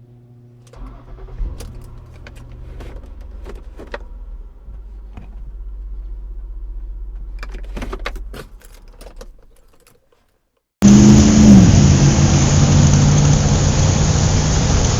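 Car sound effect: keys jangling and clicks over a car engine that starts and runs at a low, steady rumble for about nine seconds, then stops. After a second of silence, a much louder steady rushing noise cuts in near the end.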